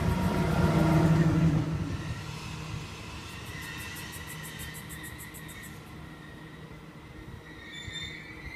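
Sydney Trains Waratah double-deck electric train running through the station without stopping. Its loud passing sound fades away about two seconds in as the last car goes by. A faint, fast, high-pitched ticking follows for a couple of seconds in the quieter background.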